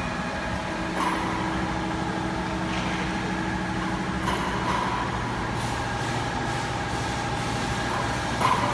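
Industrial band sawing machine running: steady mechanical noise with a low hum and a few short knocks, about a second in, around four seconds in and near the end.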